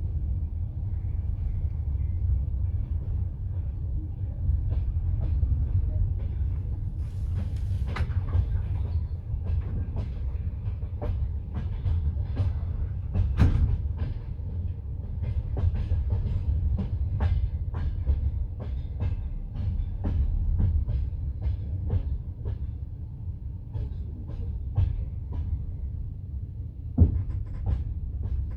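Passenger train carriage running on the rails: a steady low rumble with the wheels clacking over rail joints and switches, a dense run of sharp clicks through the middle and one loud knock near the end, heard from inside the carriage.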